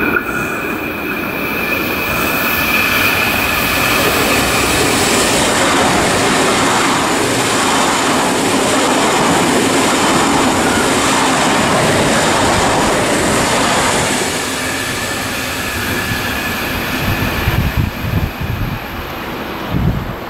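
Electric train passing on the line. A thin, steady high squeal for the first few seconds, then the loud rush of the passing train at its peak in the middle, easing off later with a few low thumps near the end.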